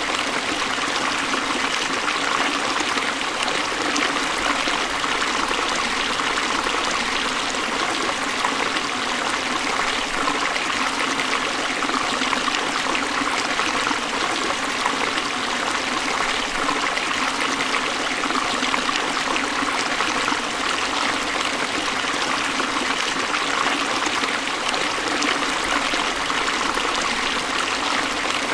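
Forest stream flowing steadily over rocks, a continuous rush and trickle of water.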